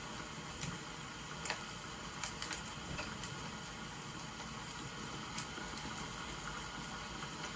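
Wood fire crackling, with a few sharp scattered pops, over a steady hiss of rain.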